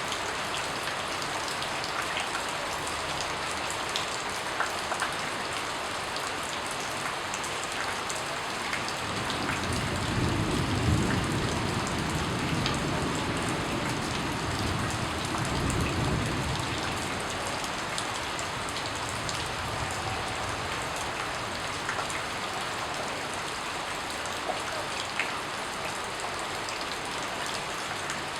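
Steady rain falling on a surface, an even hiss with individual drops ticking through it. About a third of the way in a low rumble rises under the rain and lasts several seconds before fading.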